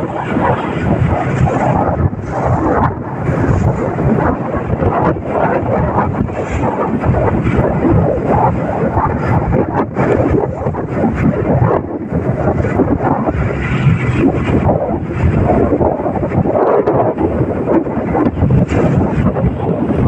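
Fibreglass fishing boat under way: a steady low rumble with loud wind buffeting the microphone.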